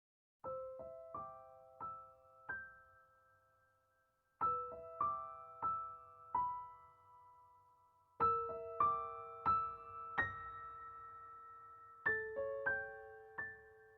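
Soft solo piano music: gentle phrases of four struck notes each, left to ring and fade, a new phrase starting about every four seconds.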